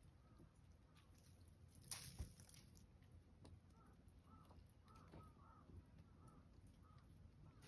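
Near silence outdoors in the snow, with faint distant bird calls: short arching notes repeated in small groups from about halfway through. A brief soft rustle about two seconds in.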